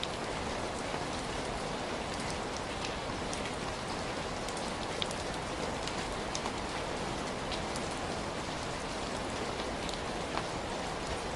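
Heavy rain falling steadily, a dense even hiss with many individual drops ticking sharply on a surface.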